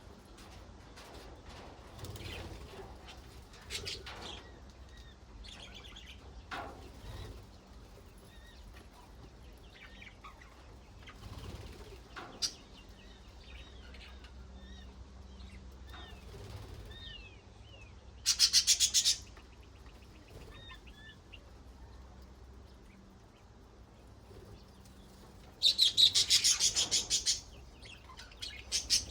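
Budgerigars chattering with scattered soft chirps and warbles, broken by loud bursts of rapid wing flapping: a short one about two-thirds of the way through and a longer one of about two seconds near the end, with more flapping just as it ends.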